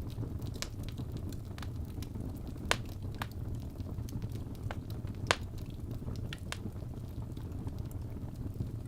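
Wood fire burning in a fireplace: a steady low rumble of flames with scattered sharp crackles and pops, two of them louder, about a third and two-thirds of the way through.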